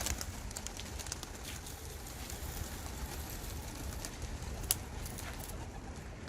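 Homing pigeons in a loft, faint cooing and rustling over a steady low rumble, with scattered clicks and one sharp click about four and a half seconds in.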